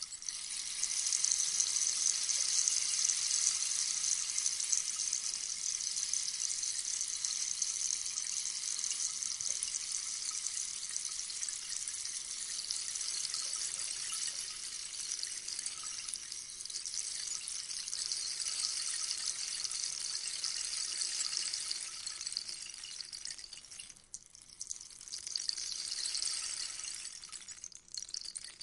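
Rainstick being tilted: a long, steady cascade of pellets trickling through the tube, like light rain, that dies away about 24 seconds in, followed by a shorter pour that fades near the end.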